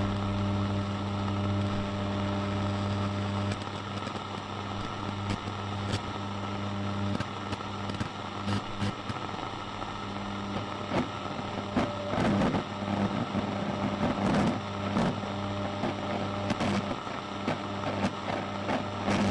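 Radio static: a steady electrical hum under hiss, with scattered crackles that come thicker in the second half. The hum weakens about three and a half seconds in.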